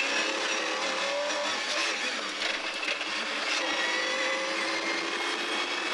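Mercedes-Benz CLK GTR Roadster's 6.9-litre V12 heard from inside the cabin, pulling hard under acceleration, its note climbing in pitch in a couple of steps.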